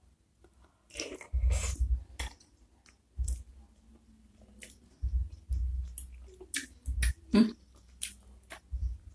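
Close-miked chewing of beef meatballs and noodles in spicy broth: irregular wet mouth clicks and smacks in bunches, with dull low thumps among them.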